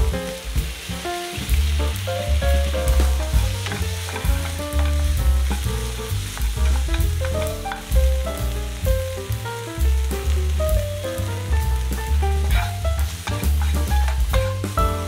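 Onions and green peppers sizzling as they fry in a nonstick pan, stirred now and then with a wooden spatula, under background music with a melody over a rhythmic bass line.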